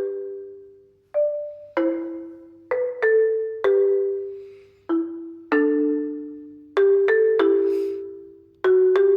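Background music: a slow, gentle melody of single struck notes on a mallet-percussion-like instrument, each note ringing and fading before the next, about ten notes in all.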